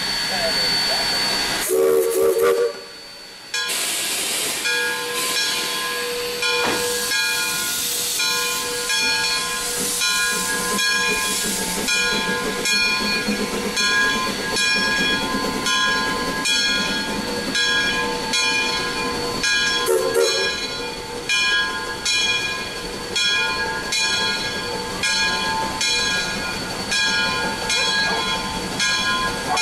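Two-truck Shay geared steam locomotive working along with steady, rhythmic exhaust chuffs and hissing steam. Its whistle sounds briefly about two seconds in and again about twenty seconds in.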